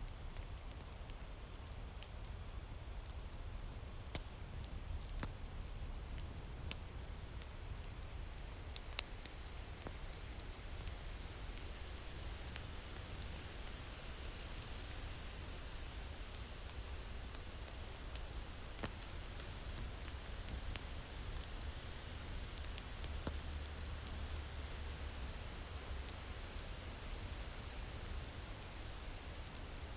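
Wood fire crackling with scattered sharp pops, over a steady low rumble of winter wind.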